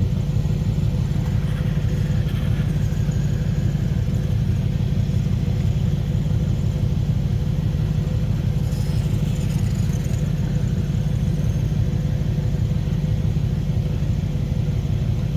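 The small engine of a 1/5-scale radio-controlled motorcycle running steadily as the bike is driven, a low even hum with no change in speed.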